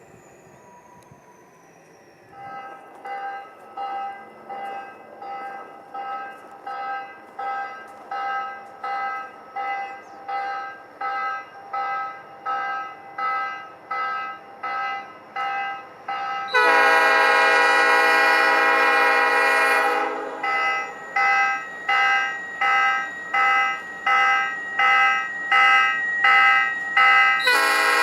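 A railroad bell rings steadily, about one and a half strokes a second, growing louder as the train approaches. A locomotive's multi-chime air horn then sounds one long blast of about three and a half seconds, the bell rings on, and a second horn blast begins near the end.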